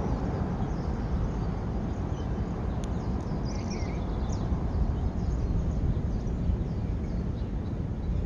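Faint, short bird chirps scattered over a steady low outdoor rumble, with one sharp click about three seconds in.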